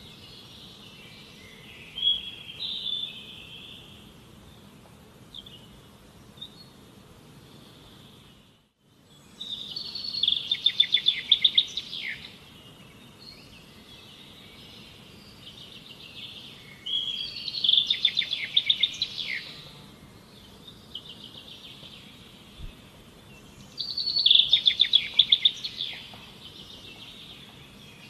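A bird singing loud phrases of rapid high notes, three times about seven seconds apart, with softer calls in between.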